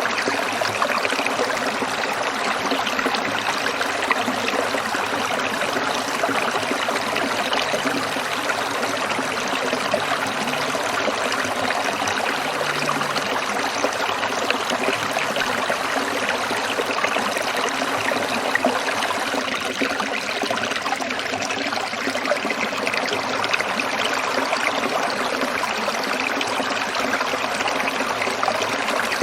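Stream water trickling and babbling over rocks, a steady dense splashing without pause.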